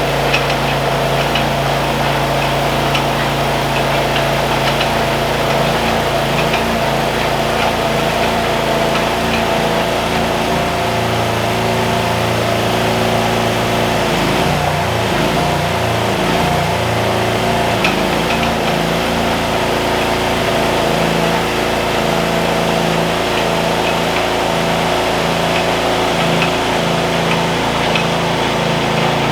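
Engine of a digging machine running steadily, its pitch dipping and wavering for several seconds near the middle as it takes load while trenching, with faint scattered ticks.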